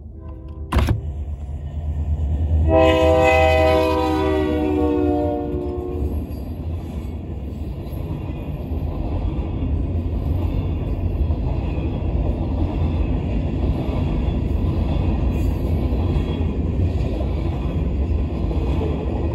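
Iowa Interstate freight train passing. A sharp knock about a second in, then the diesel locomotive's air horn sounds a long chord that falls in pitch as the engine goes by. After that comes the steady rumble and clatter of freight cars rolling past.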